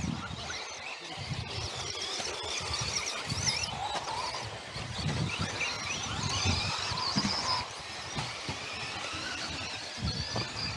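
Electric RC off-road buggies running on a dirt course, their motors and gears whining and wavering up and down in pitch as the throttle changes, with scattered light knocks.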